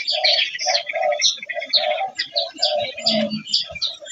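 Birds chirping busily: a dense run of short, high calls over a lower short note that repeats several times a second.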